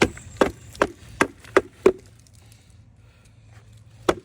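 Six sharp knocks in quick succession, about one every third of a second, then two more close together near the end, as the golf cart's air box housing is knocked to free it and shake out debris.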